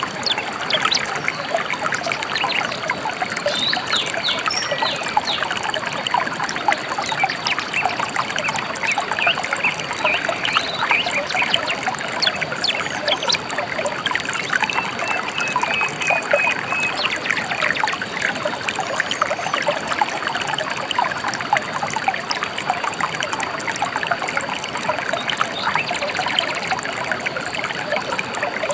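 Gentle river water trickling and babbling steadily, with a few faint bird chirps and a short trill about halfway through.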